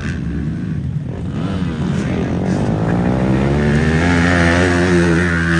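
Motocross bike engine accelerating, its pitch climbing over a couple of seconds, then holding high and loud before cutting off suddenly at the end.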